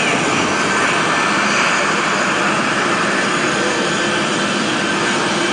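Airplane engine noise during a flyby, a steady loud rush that holds level throughout.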